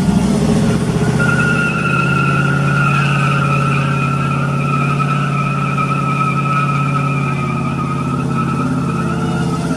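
Pickup truck doing a burnout: the engine is held at steady high revs while the spinning tires give a loud, steady squeal that starts about a second in and fades near the end.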